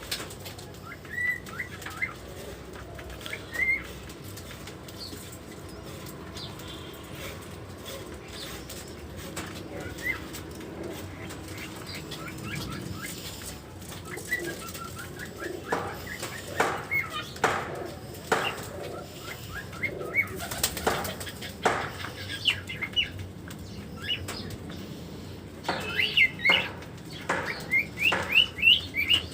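Birds chirping in short, quick calls, with repeated bursts of wing flapping, busiest in the second half.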